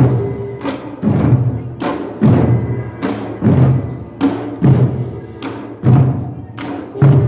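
Korean farmers' band (nongak) percussion: drums struck in a steady, even beat, a little under two strokes a second.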